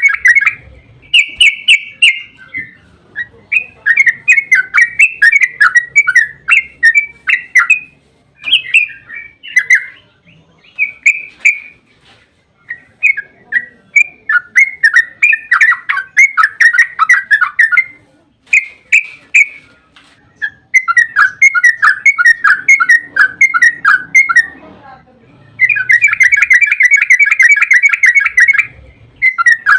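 Yellow-vented bulbul (trucukan) singing in rapid, chattering runs of bubbling notes. Each run lasts a few seconds, with short pauses between them. This is the long, fast song that bird keepers call ropel.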